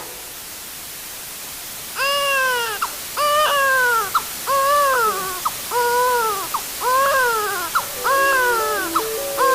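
Newborn baby crying: a run of about eight short, arching wails, one roughly every second, beginning about two seconds in after a faint hiss. Near the end, stepped electronic tones join in.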